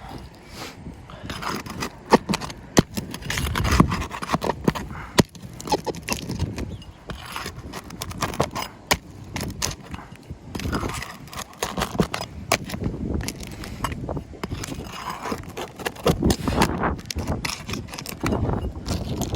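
Roof shingles being pried up and unstuck from their sealant strips: repeated scraping with frequent sharp clicks and knocks.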